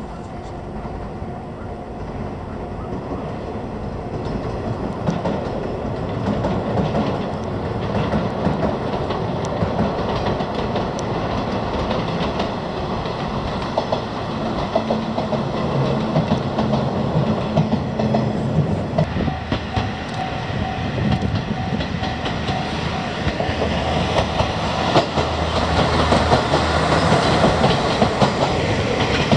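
Trains running on the rails, wheels clattering over the rail joints. The sound grows louder toward the end as a Mizushima Rinkai Railway KiHa 37 diesel railcar passes close by.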